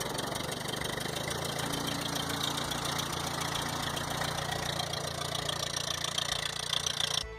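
1952 Ford 8N tractor's four-cylinder flathead gasoline engine idling steadily just after a cold start. It cuts off suddenly near the end.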